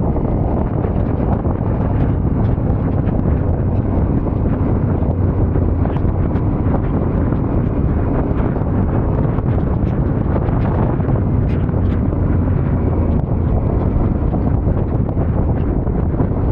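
Steady wind noise buffeting the microphone on a moving Yamaha Ténéré 700 motorcycle, with its parallel-twin engine running evenly underneath.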